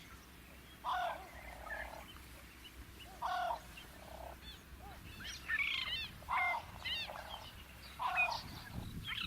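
Fork-tailed drongo calling: short harsh notes repeated every second or two, with a quicker run of thin chirps in between.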